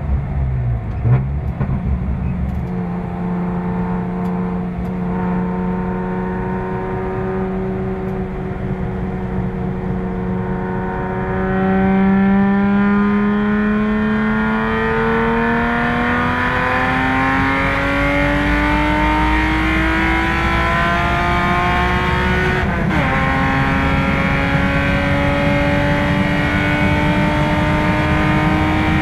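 Car engine heard from inside the cabin, accelerating on a race track: the revs hold steady, then climb with a rising pitch for about ten seconds. The revs drop sharply with an upshift a little over twenty seconds in, then climb again.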